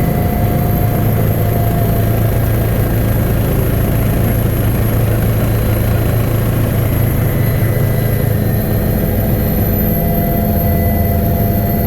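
Helicopter engine and rotor drone heard from inside the cabin in flight: loud and steady, with a deep hum and a thin high whine that never change.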